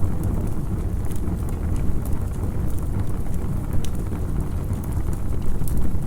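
Campfire crackling: scattered sharp pops over a steady low rumble.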